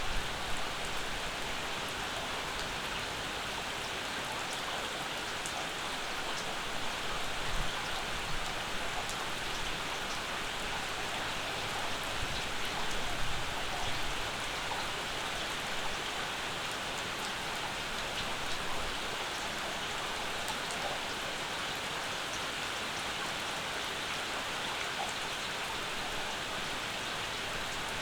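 Steady summer rainfall, with raindrops hitting surfaces. There are brief louder low swells about a quarter of the way and halfway through.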